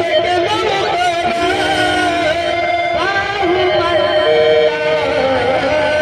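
Marathi Malhar devotional song: a singer's voice gliding through ornamented phrases over steady held instrumental notes.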